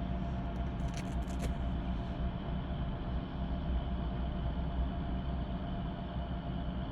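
Steady low drone of a drilling rig's machinery running, with a constant hum tone and a few faint clicks about a second in.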